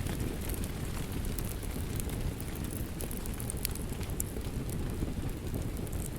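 Wood fire crackling with sharp scattered pops over a steady low rumble of rain.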